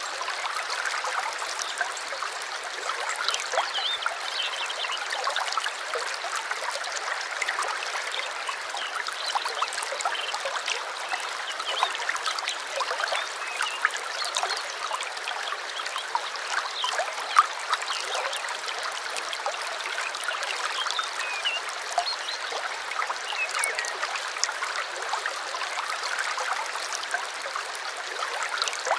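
Small stream trickling and babbling steadily over stones, with a few faint bird chirps here and there.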